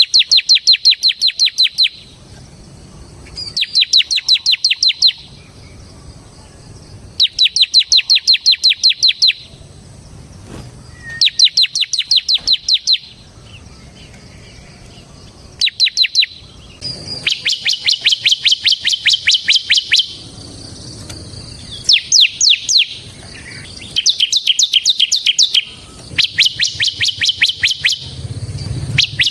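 Bar-winged prinia (ciblek) singing in its fast 'ngebren' style: a series of rapid, evenly repeated high chips, each run lasting a second or two. The runs come every few seconds at first and follow almost without a break in the second half.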